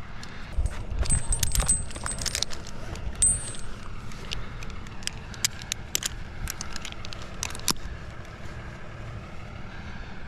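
Metal climbing hardware clinking and jangling, with many scattered sharp clicks and knocks as a tree climber works his way up a dead oak trunk; a short metallic ring sounds about a second in and again about three seconds in.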